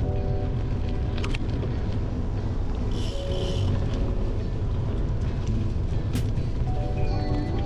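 Steady low rumble of wind buffeting and tyre noise picked up by a handlebar-mounted camera on a bicycle riding a gravel and dirt trail, with a couple of sharp clicks of the bike rattling over bumps.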